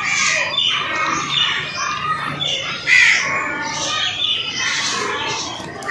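Many small birds chirping and squawking together in a busy, overlapping chatter, with a louder call about three seconds in.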